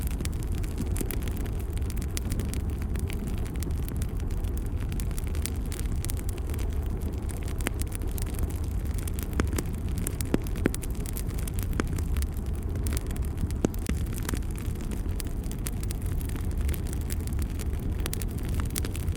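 Fire burning in a fireplace: a steady low rumble with frequent small crackles and pops scattered throughout.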